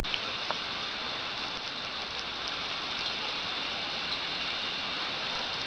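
Steady, even hiss with a few faint ticks scattered through it.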